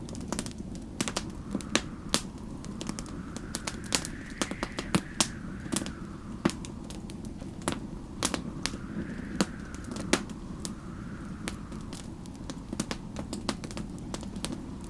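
Wood fire crackling with frequent irregular pops and snaps over a low steady rumble, while storm wind howls in the background, rising and falling in pitch in slow gusts.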